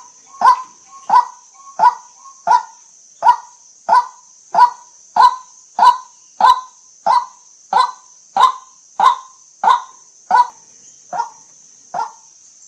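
White-breasted waterhen repeating a short, harsh call about one and a half times a second, the calls spacing out a little near the end, over a steady high hiss.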